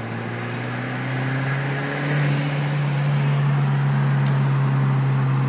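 Turbocharged 2.0-litre four-cylinder of a 2013 Hyundai Genesis Coupe 2.0T pulling in third gear, heard through the open windows with road and wind noise. The engine grows louder about two seconds in and then holds steady, with a brief hiss at the same point.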